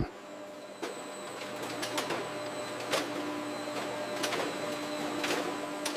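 Biscuit production-line machinery running: a steady mechanical whir with light clicks about once a second, and a low hum joining about halfway through.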